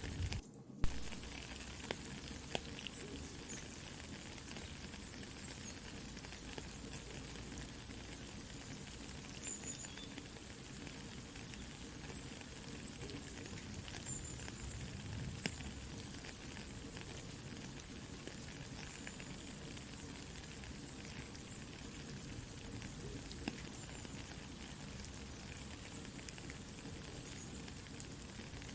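Soft rain hissing steadily with a campfire crackling, scattered pops and snaps through it. Near the start the sound drops out for a moment and comes back with a sharp pop.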